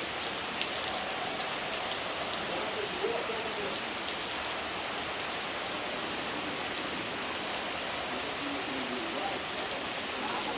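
Heavy rain falling steadily, an even wash of noise with scattered sharp ticks of drops striking.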